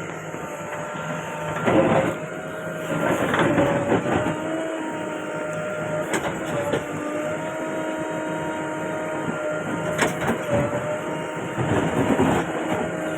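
JCB 3DX backhoe loader running under load with a steady, slightly wavering whine, broken by several bursts of scraping and knocking as it works the soil.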